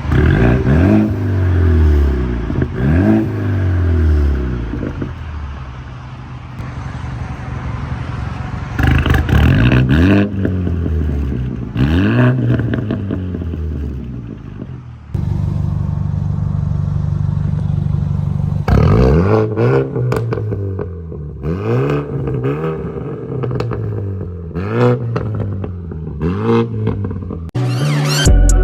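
Four-cylinder car engine revved in repeated quick blips, the pitch rising and falling back each time, with steadier running between the bursts and a cluster of short revs in the second half.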